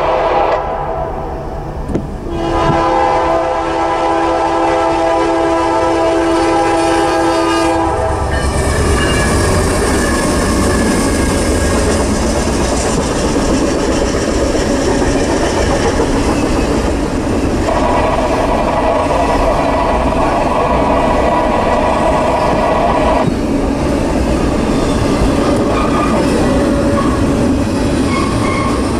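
Norfolk Southern freight locomotive horn blowing a chord, briefly at the start and then for about six seconds as the train approaches. Then the locomotives and a double-stack intermodal container train pass close by: a steady rumble with wheels clattering over the rail joints.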